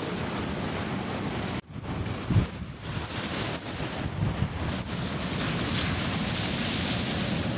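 Ocean surf washing and breaking steadily, with wind buffeting the microphone. A brief dropout comes about a second and a half in, followed by a loud low thump of wind on the microphone.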